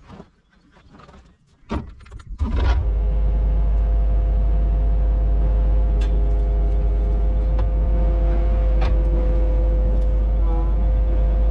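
An engine starting: a click, a short burst as it turns over, then it catches about two and a half seconds in and runs steadily and loudly.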